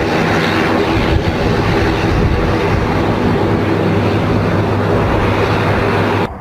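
Military transport aircraft engines running loud and steady, a dense roar with a low droning hum, cutting off abruptly near the end.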